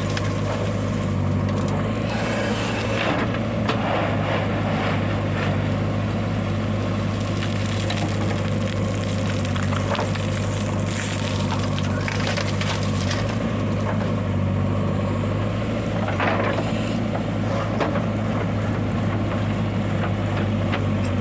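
Heavy diesel engine running steadily at a constant speed, with a few short noises over it.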